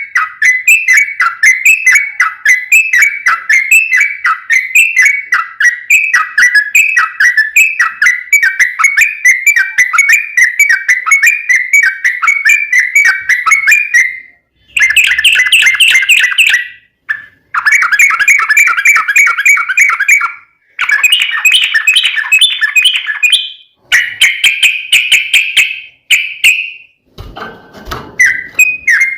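Yellow-vented bulbul (trucukan) singing a long run of quick, bubbly, whistled notes for about the first half, then breaking into several shorter chattering bursts with brief pauses between them. A short low rumble comes just before the end.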